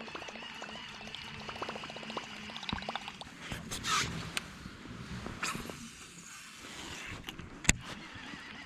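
Small splashes and trickles of water with light clicks and knocks, and one sharp knock near the end.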